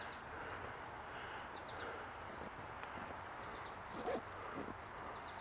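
Woodland ambience: insects droning on one steady high note, with short, high, falling chirps repeating every second or so over a faint even hiss.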